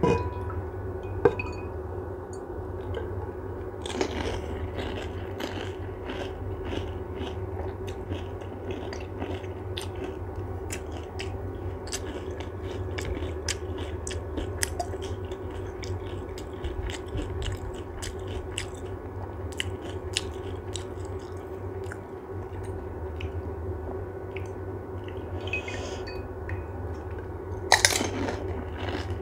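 Pani puri (golgappa) being bitten and chewed: crisp hollow fried shells filled with spicy water crunching in many small cracks over a steady low hum, with louder bites about four seconds in and near the end.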